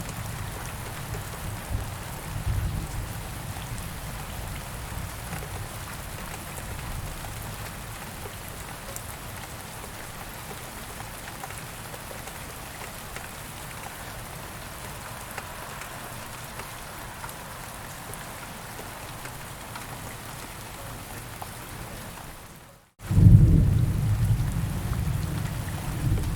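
Steady rain falling, with low rumbles of thunder. About 23 seconds in, the sound drops out for a moment and comes back with a loud low rumble of thunder.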